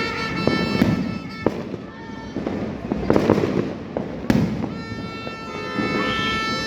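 Neighbourhood fireworks and firecrackers going off: a continual crackle with sharp bangs, one just under a second in, another about a second and a half in, and a loud one a little past four seconds.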